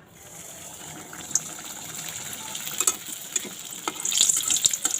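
Stuffed yeast-dough chicken buns deep-frying in oil over a low flame: a steady sizzle with sharp crackles and pops, growing louder and busier near the end.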